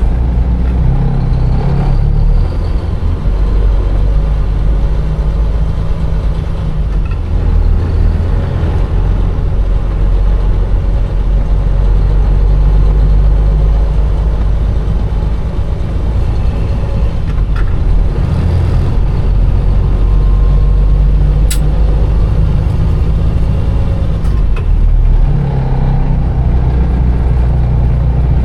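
Container truck's diesel engine running in slow traffic, a steady low drone that rises and eases off with the throttle, with a couple of sharp clicks.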